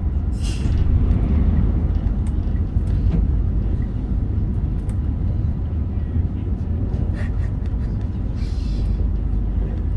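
Meitetsu Panorama Super electric train running at speed, heard from on board as a steady low rumble of wheels on rail. Faint clicks come through, and there are two short bursts of hiss, one just after the start and one near the end.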